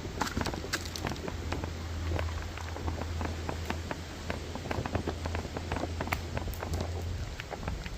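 Footsteps on a rough hill path, a dense run of irregular crackles and crunches, over a low steady hum that stops about seven seconds in.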